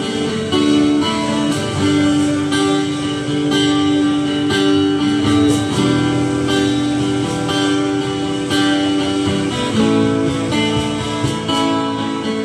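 Guitar playing a song's instrumental intro, notes picked and strummed in a steady rhythm before the vocals come in.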